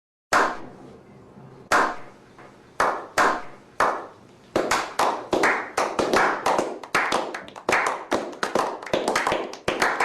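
Hand claps, slow and spaced at first, then quickening after about four seconds into a steady run of clapping.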